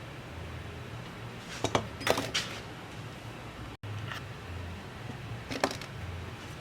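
A few short, sharp clicks and taps in quick clusters over a low steady hum.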